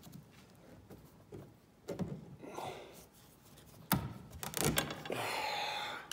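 Sounds of hand work on the heater's metal parts: a few knocks, a sharp click about four seconds in, then a second or so of scraping with a faint squeal.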